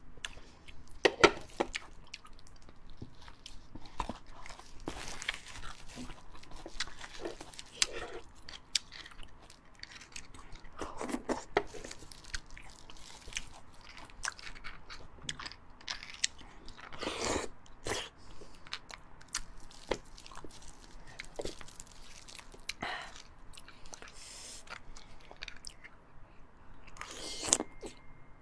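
A person chewing and biting beef bone marrow with fatty meat and sinew, a steady run of irregular mouth clicks with a few louder bites.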